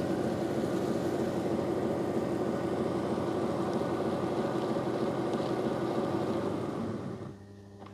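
Narwal Freo Z Ultra robot mop's dock running its mop-pad washing cycle: a steady mechanical whir that cuts out about seven seconds in, leaving a quieter low hum.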